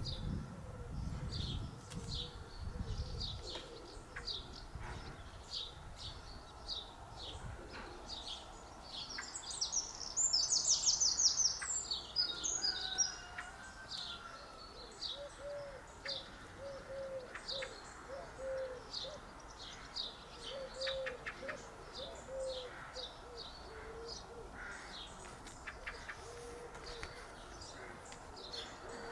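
Garden birds calling: short high chirps repeat all the way through, a louder rapid song bursts in about ten seconds in, and a series of short low notes, like a pigeon's or dove's, runs through the middle.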